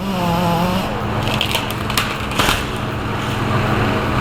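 A heavy machine's engine running steadily, with a few sharp cracks and crunches about one and a half to two and a half seconds in.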